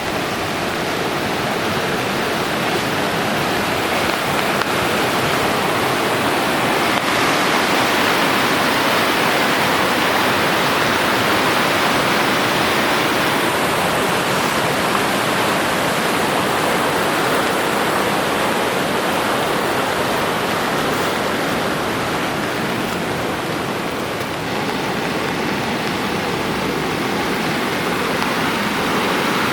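A swollen mountain creek rushing loudly after heavy rain, a steady roar of fast water with no break.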